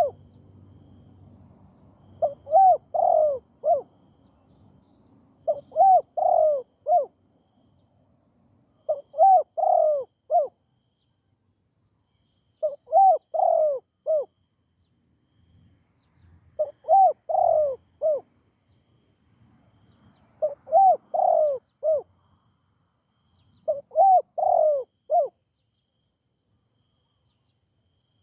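Spotted dove cooing: seven phrases of three or four arched, hoarse notes each, one phrase every three to four seconds.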